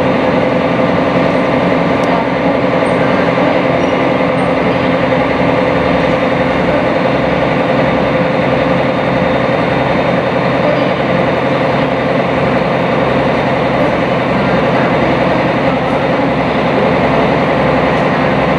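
Sightseeing boat's engine running steadily, heard from on board as a loud, even drone with a steady hum.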